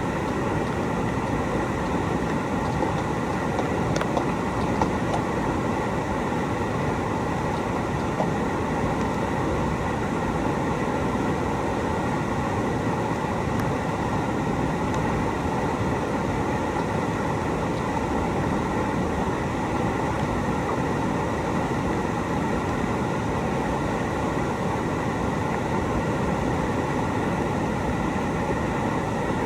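Steady rushing roar of whitewater in a river, loud and unbroken.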